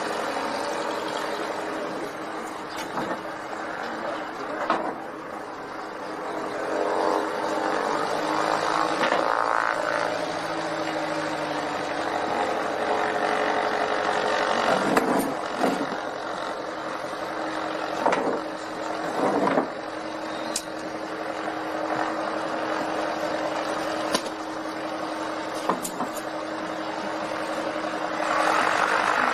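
Rushing air and airframe noise in a glider's cockpit, broken by several sharp knocks and bangs as the glider bounces hard on touchdown, a rough landing from excessive speed and pilot-induced oscillation. A different, louder noise takes over near the end.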